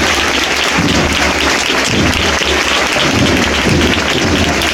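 Crowd applauding, a steady dense clapping that neither swells nor fades.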